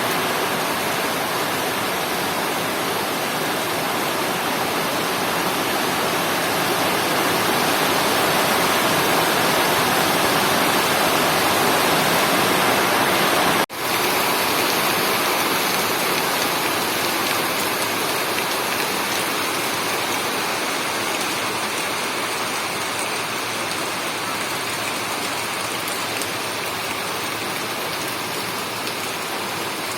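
Steady, heavy rain falling, an even rushing hiss. It cuts out for an instant a little before halfway through.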